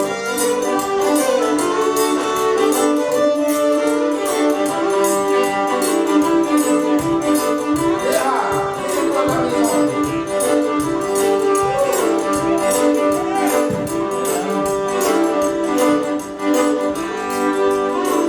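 Cajun string band playing a lively tune. A fiddle carries the melody over a steady held drone.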